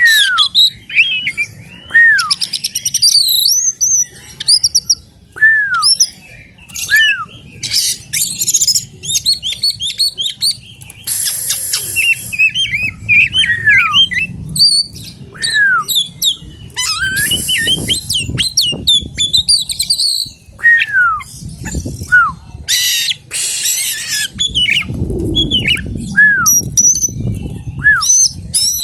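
Oriental magpie-robin (kacer) singing a varied song: clear downward-sliding whistles repeated every second or two, mixed with twittering phrases and harsh rasping bursts.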